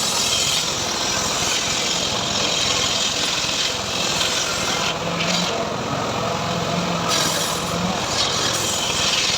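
Homemade engine-driven sawmill running and cutting teak into boards: a steady engine drone under the hiss of the saw in the wood, which eases briefly a couple of times.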